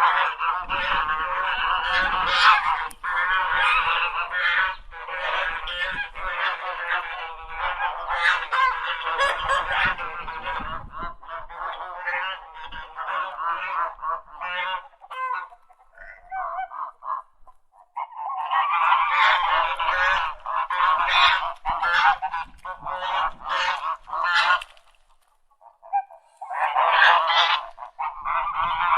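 A flock of waterfowl calling, many honking calls overlapping, with a lull a little past halfway and another shortly before the end.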